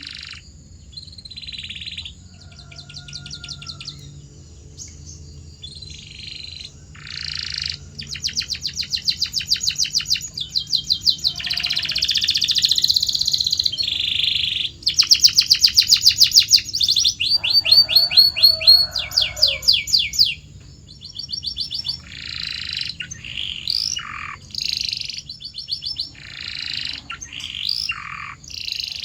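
Domestic canary singing: phrases of rapid trills and rolls of repeated high notes, loudest in the middle, then a run of short falling whistles near the end.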